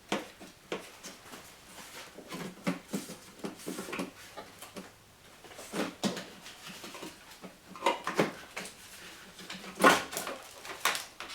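A run of irregular clicks, knocks and rattles from small plastic and metal parts being handled, as from rummaging through a parts kit for trim clips. The sharpest knock comes near the end.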